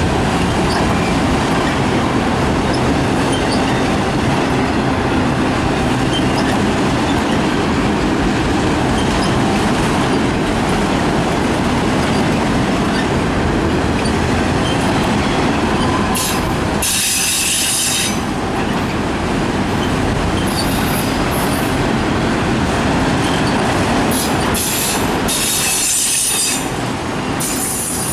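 Freight train cars rolling past on steel rails in a steady loud rumble with clickety-clack, with high-pitched wheel squeal about two-thirds of the way through and again near the end.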